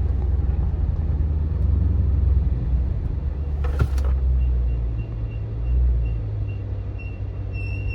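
Chrysler 300 driving with a steady low engine and road rumble as it slows, with a single sharp click a little before halfway. A thin high brake squeal comes in faintly about halfway and grows louder near the end as the brakes are applied: the brakes still squeal after a newly installed part, a sign of worn pads and rotors.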